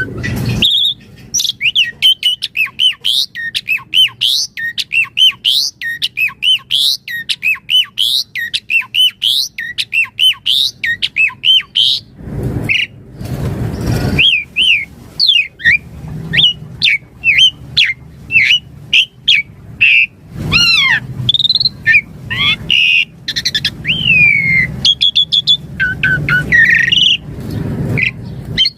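Asian pied starling (jalak suren) singing a long, varied song of rapid whistled notes and sliding glides, several a second. A harsh, noisy stretch comes about twelve seconds in and again around twenty seconds.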